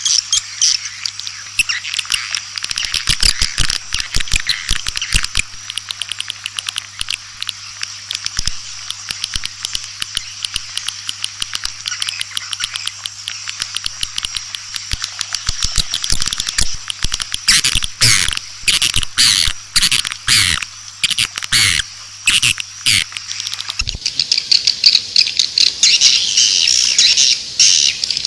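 Swiftlets twittering and clicking in a dense, rapid chorus of chirps, the swiftlet call sound played to lure swiftlets into a nesting house. A low steady hum runs underneath until about four seconds before the end.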